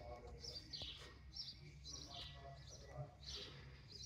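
Faint bird chirping: short high chirps repeated every few tenths of a second over a low background hum.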